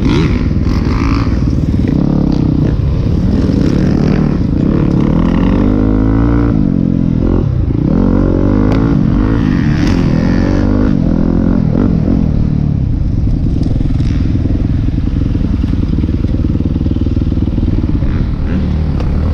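A Yamaha YZ250F single-cylinder four-stroke dirt bike engine being ridden hard, heard from an onboard camera. Its pitch rises and drops again and again as the rider revs, shifts and rolls off through the track.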